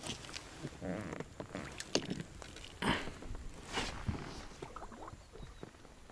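A small boat being rowed: oars dipping and splashing roughly once a second, with small knocks from the boat and oars.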